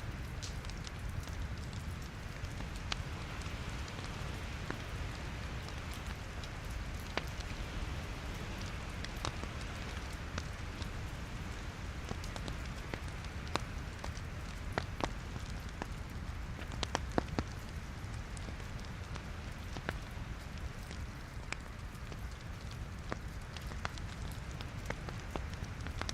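Wood logs burning in a fireplace: a steady low hiss and rumble with frequent irregular sharp crackles and pops, which come thickest a little past the middle.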